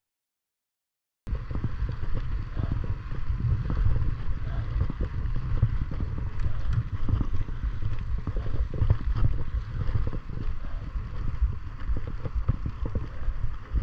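Wind buffeting the microphone during a bicycle ride: a gusty low rumble with a hiss above it, starting abruptly about a second in.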